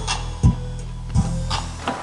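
Bass-heavy music played through four 4-inch Sound Storm SSL LS40 subwoofers in a small sealed box, heard in the room. A steady low bass runs under sharp beat hits that come about every 0.7 seconds.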